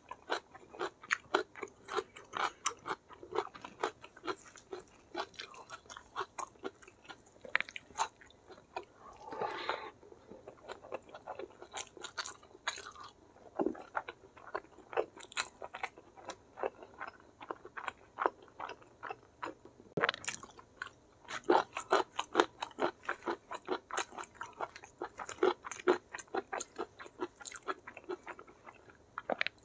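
Close-miked chewing of rice and semur jengkol eaten by hand: a dense, irregular run of wet mouth clicks, smacks and crunches. There is a brief pitched sound about ten seconds in.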